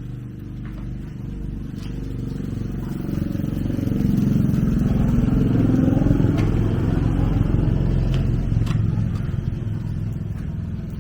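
A small engine running, revving up to a peak about halfway through, then easing back down, with a few light clicks.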